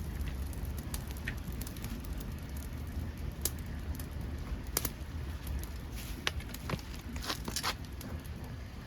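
Dead podocarpus wood burning in a homemade pail-can secondary-combustion wood stove: irregular sharp crackles and pops over a steady low rumble, with the loudest snaps around the middle and near the end.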